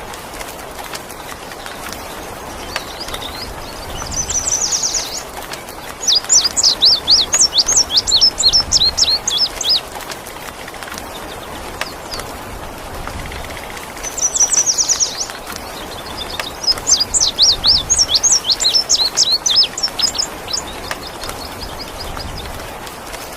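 A songbird, the bird the title calls an indigo bird, sings twice. Each song is a short high lead-in followed by about four seconds of rapid, loud, high sweeping notes, with a third song starting near the end. A steady hiss of rain or running water lies underneath.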